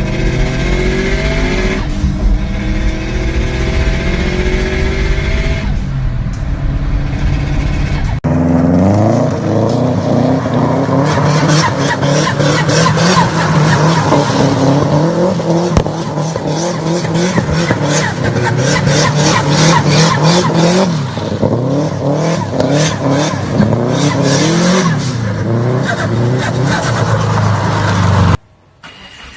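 Turbocharged car engine driven hard, revving up and falling back again and again through gear changes. Two separate runs are joined about eight seconds in. From about eleven seconds a rapid crackle rides over the engine, and the sound cuts out briefly near the end.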